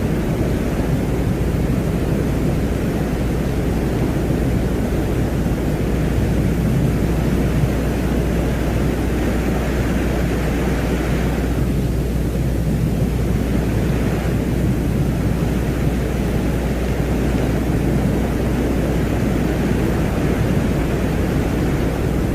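Continuous low rumbling drone with a hissing wash above it, a steady space-ambience soundscape presented as the sound of Venus; the higher hiss thins out briefly about halfway through.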